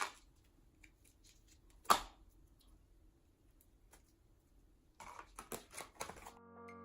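Slime and its plastic tub being handled: a sharp click about two seconds in, then a quick run of small clicks and pops near the end.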